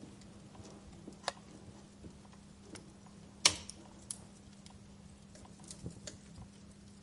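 Wood fire in a fireplace crackling, with scattered sharp pops over a low hiss; the loudest snap comes about halfway through, with a smaller one about a second in.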